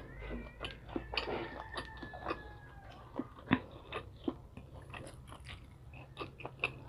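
Close-miked chewing and biting of fried street food, with scattered sharp little clicks and smacks; the loudest click comes about three and a half seconds in.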